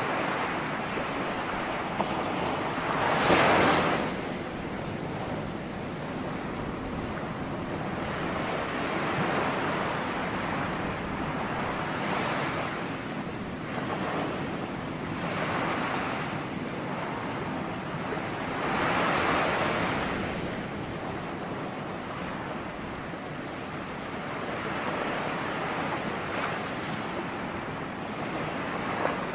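Ocean waves washing onto the shore in a steady rush of surf. Each wave swells and recedes every few seconds, and the strongest breakers come about three seconds in and again around two-thirds of the way through.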